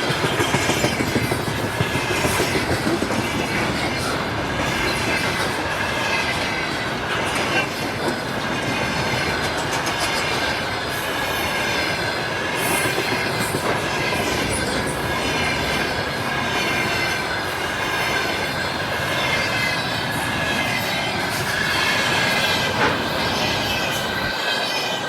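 Freight train wagons rolling past, wheels clacking over the rail joints in a repeating rhythm, with a steady high squeal from the wheels.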